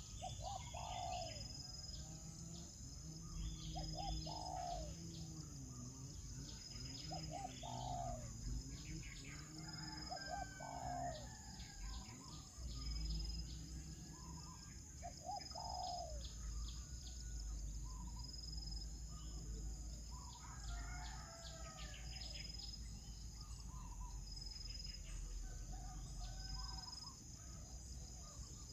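Birds calling in short repeated phrases every few seconds, over a steady high insect drone with a regular ticking pulse.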